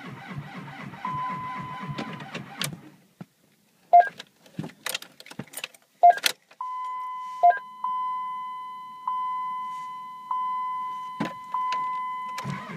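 The starter cranks the 2004 Dodge Ram's 5.9 Cummins diesel at −38 °C without it catching, and the cranking stops about three seconds in: a cold no-start. Then come clicks, a few short beeps, and a dash chime repeating about once a second. Cranking starts again right at the end.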